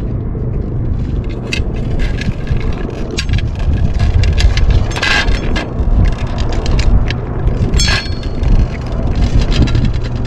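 Strong wind buffeting the microphone as a steady low rumble, with scattered clicks and short scraping noises over it.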